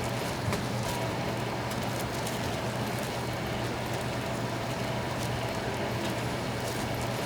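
Fish cakes (eomuk) deep-frying in hot oil: a steady crackling sizzle with faint pops, over a steady low hum.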